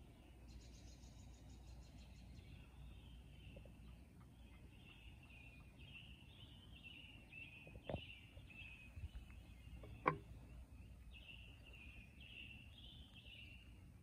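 Faint outdoor birdsong: a steady run of short, repeated chirping phrases from songbirds. A sharp click comes about eight seconds in, and a louder one about ten seconds in.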